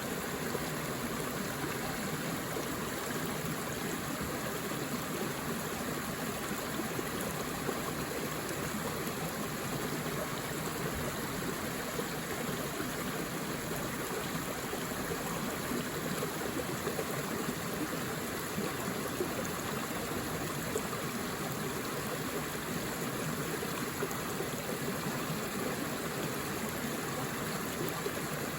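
A forest river flowing: a steady rush of water over rocks.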